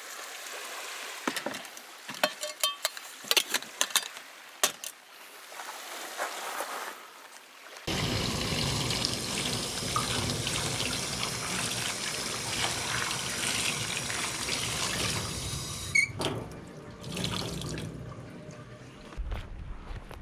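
Water running and splashing, starting abruptly about eight seconds in, after several seconds of scattered light clicks and knocks.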